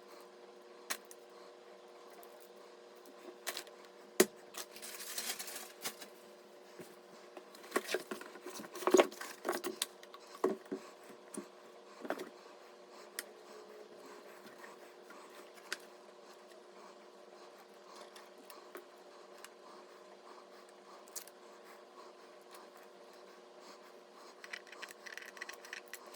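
Small hard parts being handled: scattered clicks and taps, a brief scraping rustle about five seconds in, and a cluster of louder knocks around nine seconds, over a faint steady hum.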